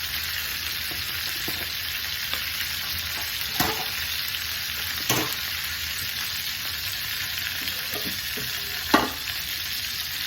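Pork chops searing in a very hot skillet, giving a steady sizzle. Three sharp knocks come through it, about three and a half, five and nine seconds in, the last the loudest.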